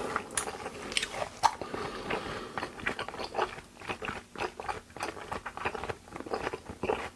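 Close-miked chewing of raw beef: wet mouth smacks and many short clicks, irregular, as the food is bitten and chewed.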